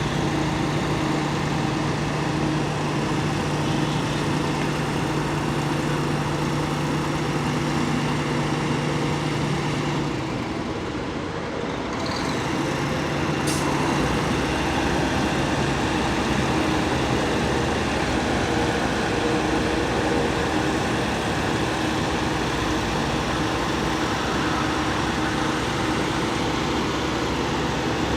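Fire truck engine running steadily with a low hum. It eases off briefly about ten seconds in, and there is a single sharp click shortly after.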